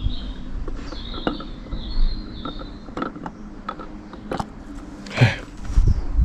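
Light metal clicks, knocks and a brief scrape as a Mazda 13B rotary engine's rotor is slid back into its rotor housing by hand, its corner seals lined up.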